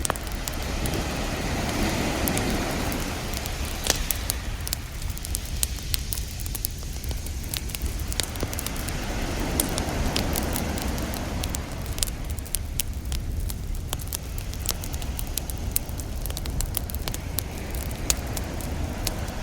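Beach campfire crackling with frequent sharp pops over ocean surf washing ashore; the waves swell up about two seconds in and again about ten seconds in, over a steady low rumble.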